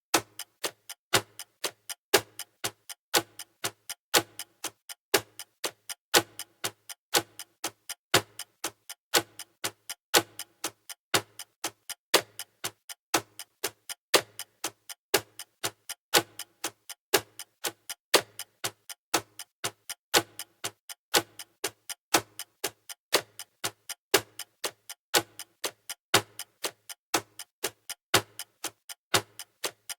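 Clock ticking steadily: an even, unbroken rhythm of sharp ticks, each with a slight low knock beneath it, a countdown timer's tick sound effect.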